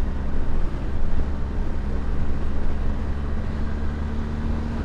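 Motorcycle engine running at a steady cruise, a low rumble with a steady hum, under wind rush on a helmet-mounted camera.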